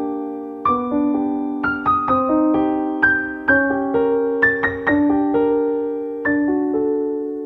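Background piano music: gentle notes and chords struck a few times a second, each ringing and fading.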